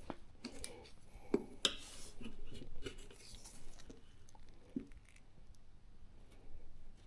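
Tyre levers prying a motorcycle tyre bead over the wheel rim: a few sharp clicks of metal on the rim and a stretch of scraping as the bead is worked, in the first four seconds or so.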